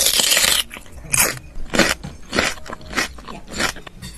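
Close-up eating of McDonald's fast food: a loud crunching bite at the start, then crunchy chewing in short strokes about twice a second.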